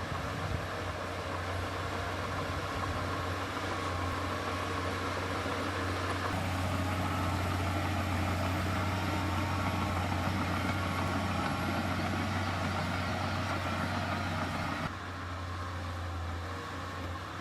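Heavy diesel engine of earthmoving machinery running steadily with a deep hum, getting a little louder about six seconds in and dropping off sharply near the end.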